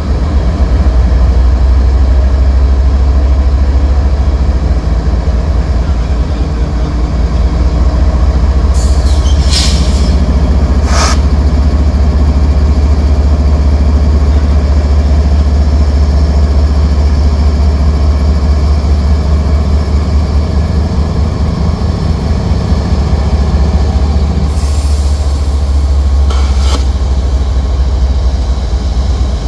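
A freight train's diesel locomotives rolling slowly past at close range, a loud deep steady engine rumble. Short high-pitched bursts of noise cut in about ten seconds in and again around twenty-five seconds in.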